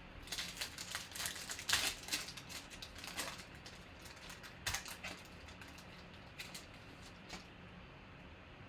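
2020 Panini Prizm football card packs being opened: quick sharp crinkling and tearing of the pack wrappers for the first few seconds, then scattered light clicks and rustles as the cards are handled.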